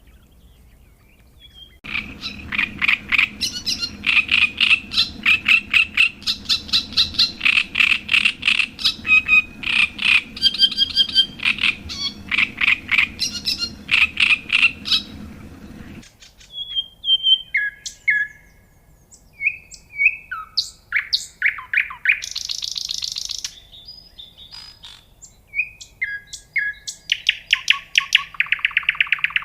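Songbirds singing: a long, fast run of chirps and trills over a low background hum, then, from about halfway through, sparser whistled notes, a buzzy trill and a rapid trill near the end.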